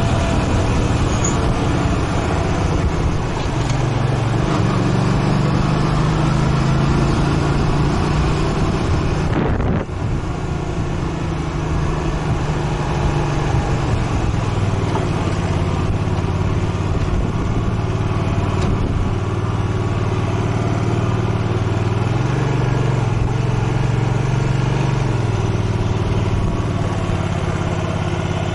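Motorcycle engine running under way, heard from on the bike over a steady rushing noise. Its pitch rises and falls with the throttle, dipping briefly about ten seconds in and shifting again a little over twenty seconds in.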